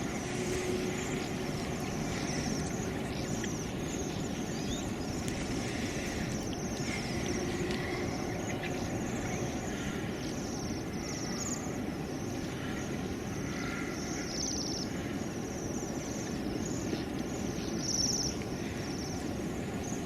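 Outdoor ambience: a steady low rumble of background noise with frequent short, high chirps over it.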